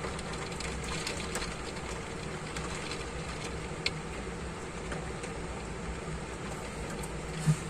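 Heavy rain falling in a steady hiss, with scattered drips ticking and a faint low hum underneath. A sharp tick comes about four seconds in, and a louder thump just before the end.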